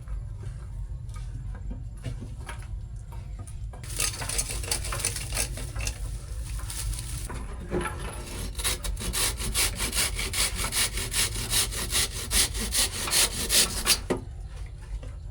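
Rhythmic rasping strokes, about four to five a second and getting louder, like something being scraped or sawn back and forth, after a few seconds of continuous scraping.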